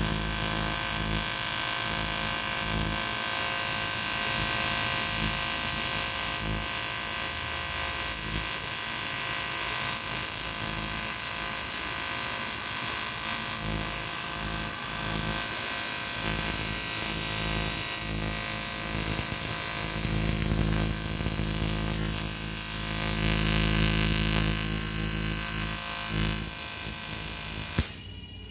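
TIG welding arc on aluminium, a steady buzz with a high hiss, running without a break and cutting off suddenly near the end as the arc is stopped.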